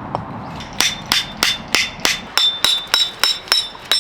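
A hammer repeatedly striking a steel chisel driven into a thick log to split it, about three blows a second, each with a short metallic ring.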